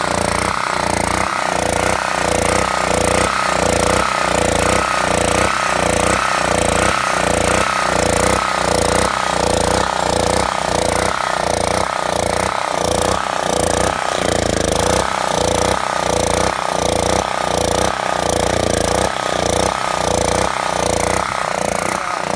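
Generac generator engine running with no load, its sound pulsing steadily about twice a second as it struggles, as if starved of fuel. The owner has been told this points to a bad governor or a clogged carburetor.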